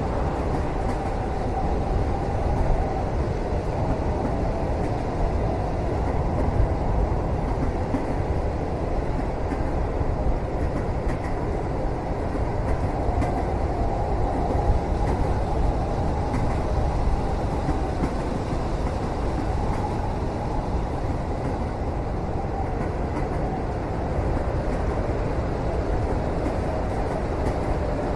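Steady rumble of a train running on the rails, heard from inside a passenger cabin, with a faint wavering whine drifting in and out.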